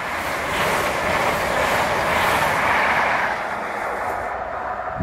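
High Speed Train of Mk3 coaches and Class 43 power cars running through at speed, a steady rush of wheels on rail that dies away after about three seconds as the last vehicles go by.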